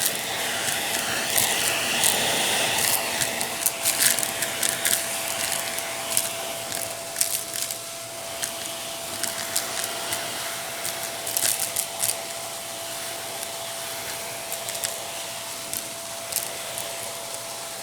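Vacuum cleaner running with a steady motor whine, while small debris clicks and rattles irregularly as it is picked up.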